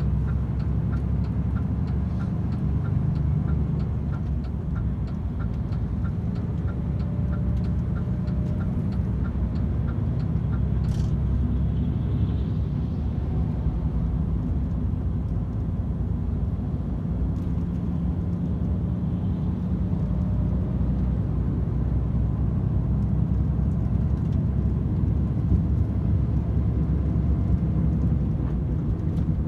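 DAF XF 510 lorry's six-cylinder diesel and tyres droning steadily at motorway speed, heard from inside the cab. A light regular ticking, about two a second, runs through the first ten seconds and then stops.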